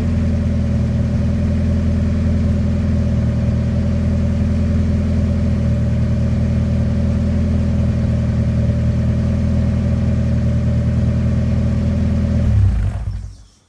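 1997 Mazda Miata NA8's 1.8-litre four-cylinder idling steadily through a home-built custom exhaust, a 2.5-inch resonator into a single-in, dual-out muffler with center bumper exit. The engine is shut off near the end and the sound dies away.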